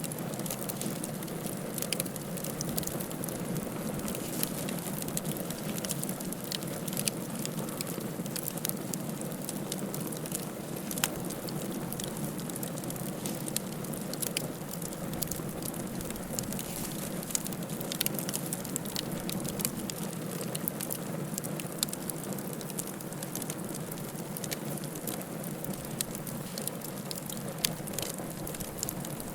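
Wood fire in a fireplace crackling: frequent sharp, irregular pops and snaps over a steady low background of the burning fire.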